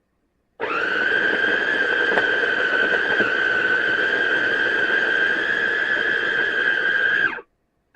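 JOYAMI electric food processor's motor and stainless steel blades running, a steady whine that starts sharply about half a second in and cuts off abruptly near the end, blending mayonnaise into the chopped mixture.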